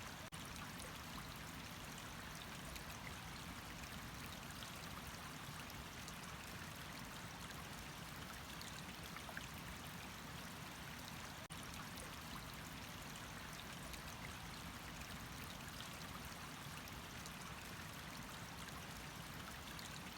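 Water running steadily, a continuous even rush of noise that dips for an instant twice.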